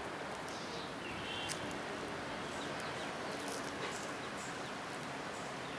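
Open-air ambience: a steady background hum of noise with scattered short, high bird chirps, a brief run of chirps about a second and a half in.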